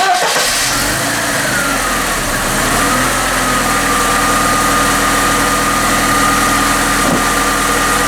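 VAZ-21214 1.7-litre injected engine in a VAZ-2107, just started and running steadily at idle, with a thin whine that drops a little in the first few seconds and then holds. With a new timing chain, tensioner, shoe, damper, jackshaft bushings and oil-pump gear fitted, it runs without the metallic rattle from the timing chain area.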